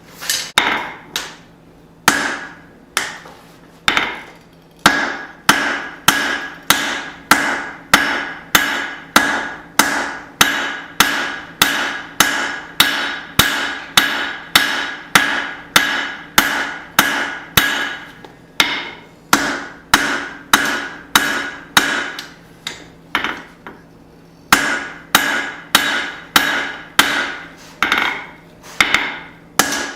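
Forging hammer striking hot steel on an anvil in steady runs of about two blows a second, each blow ringing, with a few short pauses between runs. The steel is a small hatchet head being reshaped.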